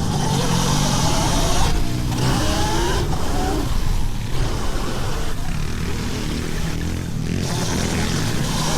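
Pit bikes running on a track, their pitch rising and falling as they rev up and back off.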